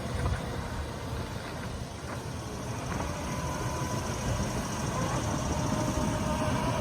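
Steady rushing roar of a waterfall, continuous and unbroken.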